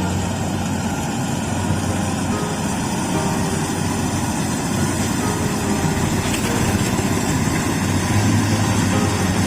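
Kubota combine harvester's diesel engine running steadily while working, with a constant low hum.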